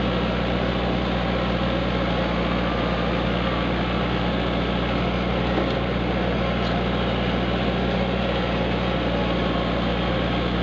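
Kubota tractor engine running steadily at an even speed, with a constant low drone.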